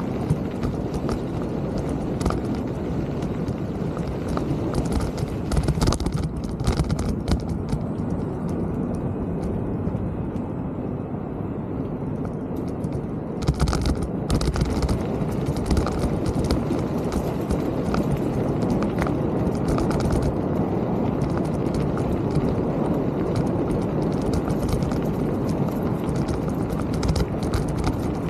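Mountain bike rolling over a rough trail: a steady rumble from the tyres and frame, with frequent clicks and rattles and a louder clatter about halfway through.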